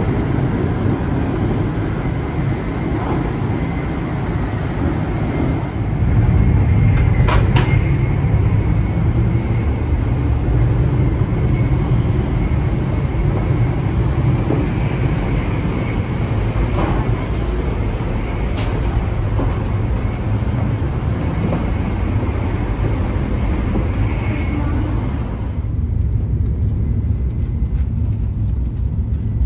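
Steady low rumble of a W7-series Shinkansen bullet train running, heard from inside the car. It grows a little louder about six seconds in, with a few light clicks and a faint steady high tone.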